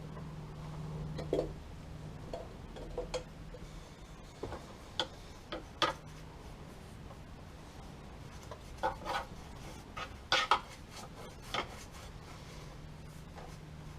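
Scattered light clicks, taps and scrapes of a paintbrush against a tin of brush-on rust treatment and bare car-body metal, coming in small clusters, over a faint low steady hum.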